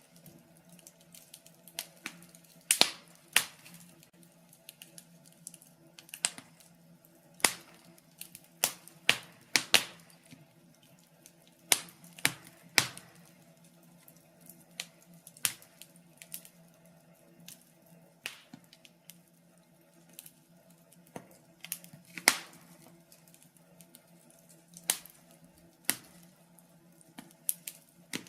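Burning logs in a fireplace crackling: irregular sharp pops and snaps, some much louder than others, over a faint steady low hum.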